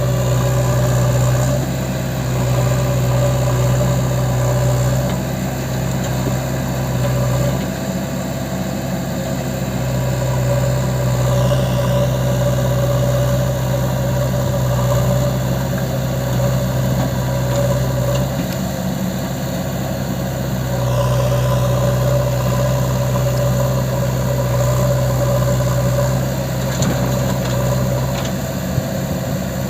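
Diesel engine of a tractor loader or backhoe loader running steadily under varying load, its low hum strengthening and easing a few times.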